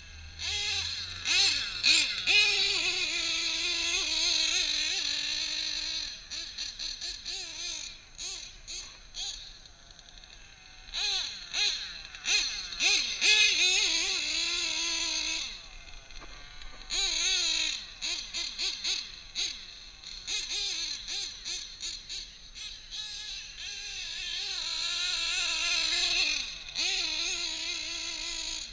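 Drag-modified Novarossi .28 nitro engine in a Kyosho 1/7-scale Scorpion truggy revving hard, in long high-pitched runs that waver up and down. Between the runs come rapid stuttering throttle blips.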